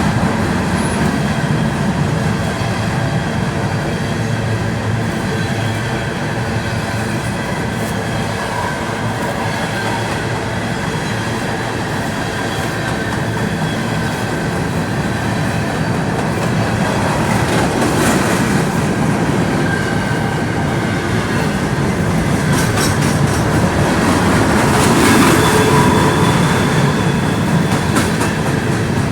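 A long train passing at close range: a loud, steady rumble of wheels on rail with squealing tones from the wheels and a clickety-clack of rail joints.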